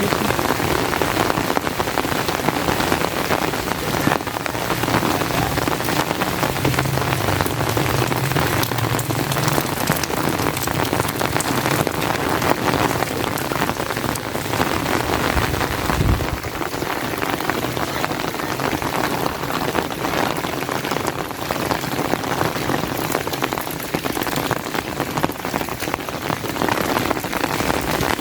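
Steady rain falling, a dense patter of drops, with a brief low thump about sixteen seconds in.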